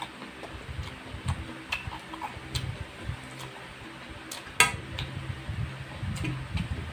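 Close-up chewing and mouth sounds of someone eating noodles, with scattered clicks of a metal fork against a frying pan and one sharp clink a little past halfway.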